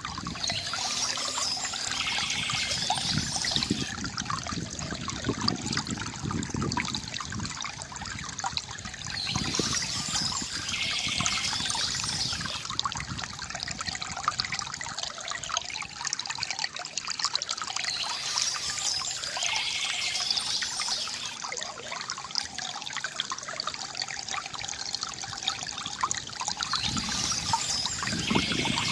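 Water trickling and gurgling from a bamboo fountain, running continuously, with a brighter splashy swell coming back about every nine seconds.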